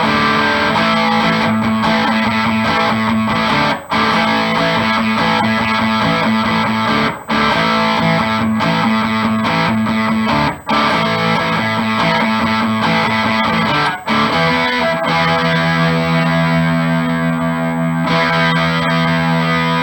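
Electric guitar with a distorted amp tone, played through the bridge-position Seymour Duncan Little 59 mini humbucker: chords and riffs with short breaks, ending on held notes. The tone is pretty bright.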